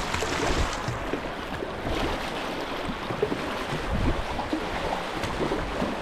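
Fast river current rushing steadily, with irregular low thumps.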